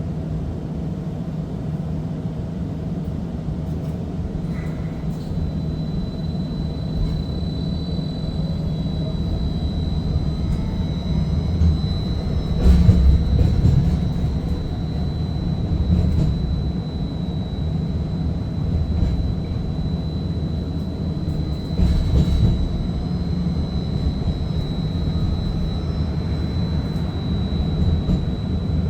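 First Hill Streetcar running along its track, heard from inside the car: a steady low rumble with a thin, steady high whine that comes in a few seconds in. Two louder knocks from the wheels and track come about halfway through and again about two-thirds of the way through.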